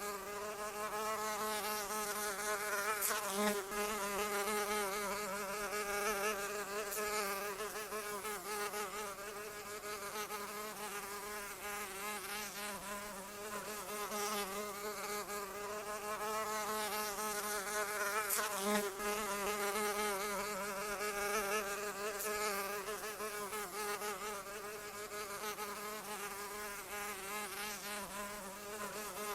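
A fly buzzing continuously. Its wingbeat hum wavers slightly in pitch and swells and fades in loudness, as if circling near the microphone.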